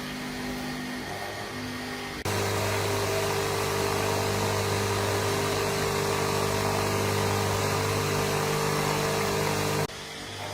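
Electric motor-driven high-pressure water pump running with a steady hum. About two seconds in it abruptly becomes louder and fuller, then drops back just as suddenly near the end.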